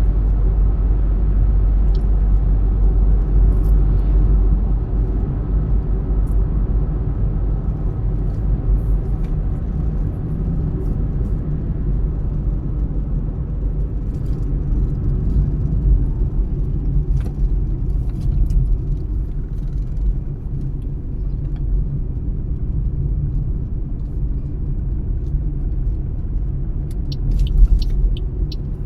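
A car driving along the road: a steady low rumble of engine and tyre noise. A few short, sharp clicks come near the end.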